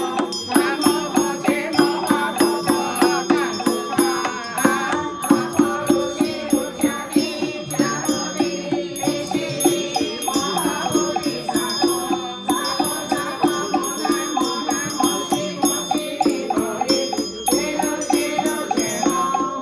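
Temple ritual music: a steady beat of strikes, about three a second, with bells ringing and a wavering melody over a held drone.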